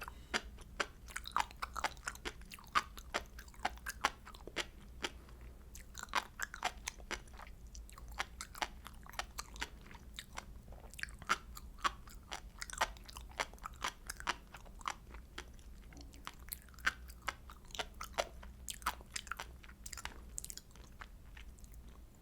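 Chewing of sea grapes (Caulerpa seaweed): a fast, steady run of small crunchy pops, several a second, as the beads burst between the teeth.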